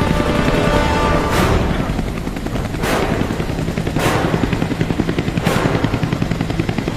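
Action-film soundtrack mix: a helicopter's rotor chopping fast under the music score, with four sharp hits cutting through at intervals of about a second to a second and a half.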